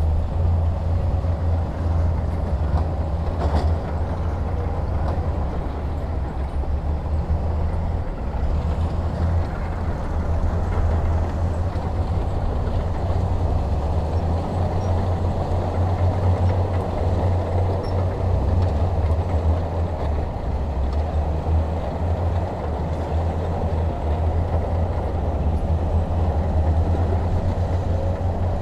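A heavy diesel engine running steadily, a low, even drone with no revving.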